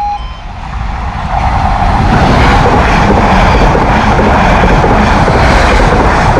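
Class 745 electric multiple unit passing over a level crossing at speed: a steady rush of wheels on rail that swells in over the first two seconds and then holds loud. The last pulse of the crossing's warning alarm cuts off right at the start.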